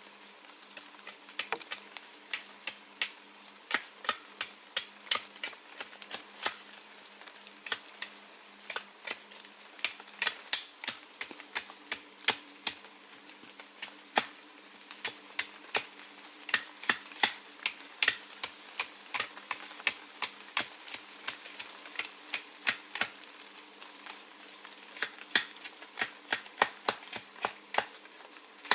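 Hand tool striking again and again in short, sharp knocks, two or three a second in uneven runs, with a couple of brief pauses.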